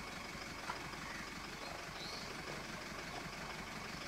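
An engine idling steadily with an even low pulse, and a faint high chirp repeating about every three seconds.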